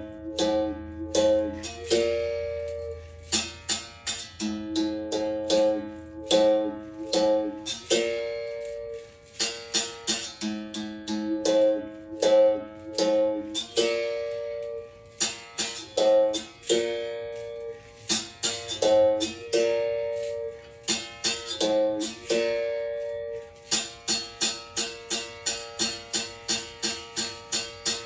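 Berimbau, its steel string struck with a stick, playing a repeating rhythm on two pitches: groups of quick strikes on each note, each group ending in a longer ringing note. Near the end it settles into a steady run of even strikes on one pitch, about two or three a second.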